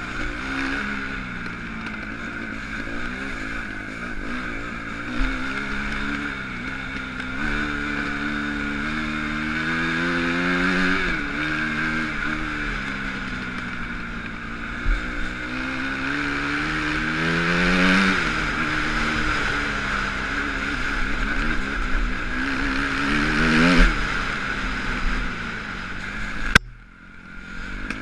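Motocross bike engine revving hard and backing off again and again, its pitch rising and falling as it is ridden. It cuts off suddenly with a click about a second before the end.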